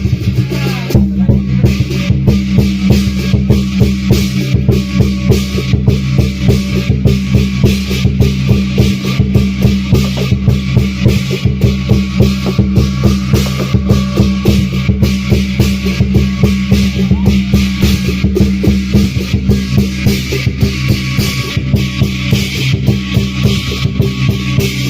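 Lion dance drum and cymbals playing loudly in a fast, steady beat of about four strikes a second.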